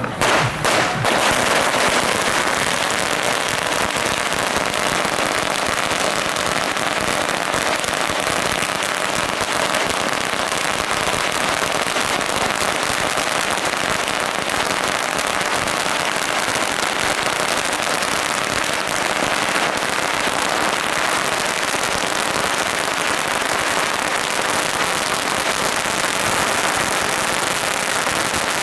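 A long string of firecrackers going off without a break: a few louder bangs at the start, then a dense, steady crackle.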